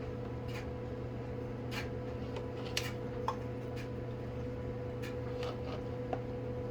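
Scattered small clicks, taps and rustles of packaging being handled over a steady electrical hum.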